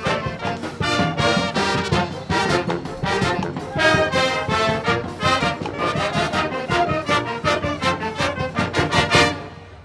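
Wind band of brass and percussion playing a lively forró arrangement with a steady, driving beat, ending on a final accented note a little over nine seconds in and cutting off sharply.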